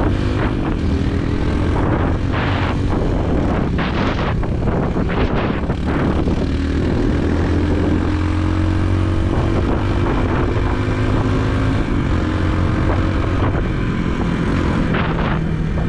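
Motorbike engine running steadily under way, heard from a helmet camera on the moving bike. Its pitch climbs slowly through the middle as the bike speeds up, and there are a few brief rushes of noise along the way.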